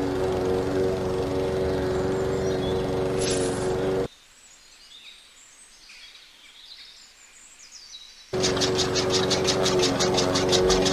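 A small electric motor on a home-made model machine runs with a steady hum, then cuts off abruptly about four seconds in. About four seconds of quiet follow, with faint bird chirps. Then the motor starts again, now with a fast ticking of about eight ticks a second.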